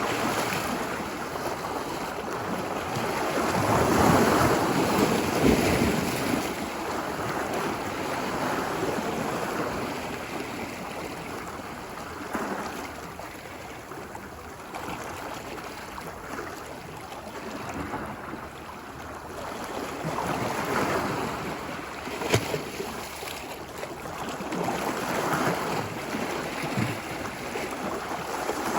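Ocean surf washing ashore, a steady rush of water that swells and falls back several times, with the biggest wave about five seconds in. A brief sharp tick a little over two-thirds of the way through.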